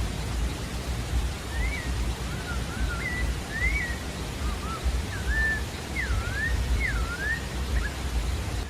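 Sabiá-da-várzea thrush singing: a string of short whistled notes that glide up and down, starting about one and a half seconds in. It sings over a steady low rushing noise.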